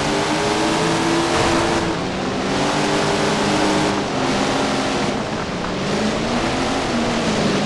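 410 sprint car's V8 engine running loud at high revs, its pitch climbing, dropping back and climbing again several times as the throttle comes off and on.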